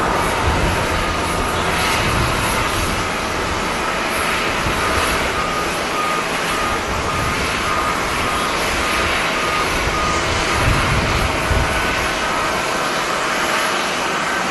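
Steady rumble of jet airliner engines mixed with wind noise, loud throughout. In the middle, for several seconds, a string of short even beeps at one pitch, like a ground vehicle's reversing beeper.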